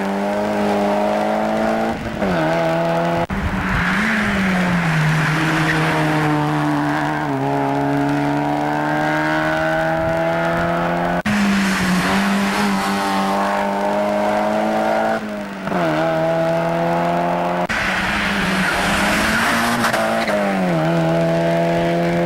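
Mazda MX-5 race cars' four-cylinder engines running hard at high revs. The pitch steps down after a short lift at each upshift, about four times, and the sound jumps abruptly from one car to another several times.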